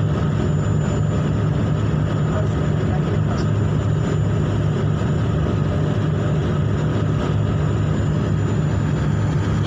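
Ship's engine running with a steady low drone that does not change.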